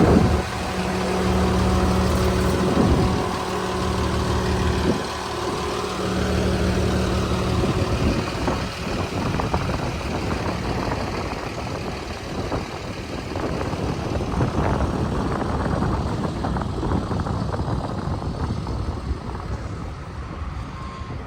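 Jet fuel truck's hose reel rewinding the hose, a steady hum over the running truck engine that stops about seven seconds in. After that, the engine keeps running with irregular knocks and rattles.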